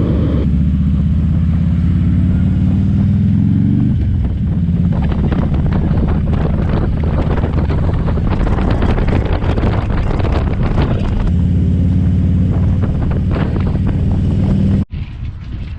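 Motorcycle engine running under way, its pitch climbing over the first few seconds and dropping about four seconds in, with wind buffeting the microphone through the middle. The sound cuts off abruptly near the end.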